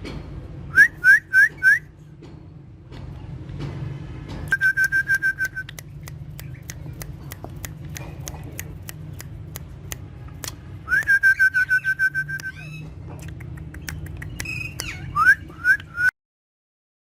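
Pet parrots whistling: short rising whistle notes in quick runs of three or four, and two longer trilled whistles held at one pitch, with a string of sharp clicks between them. The sound cuts off abruptly near the end.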